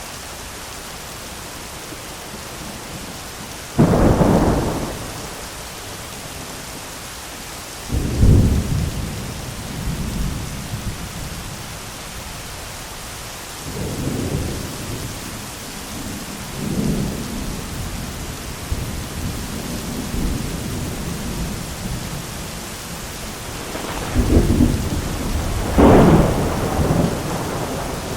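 Thunderstorm: steady rain throughout, with thunder striking suddenly about four seconds in and again about eight seconds in, lower rumbles rolling in between, and a double crash near the end.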